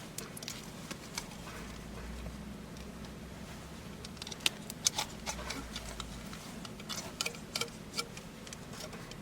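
Irregular small clicks and taps from hands handling a plastic boat compass and its double-sided mounting tape, more frequent in the second half.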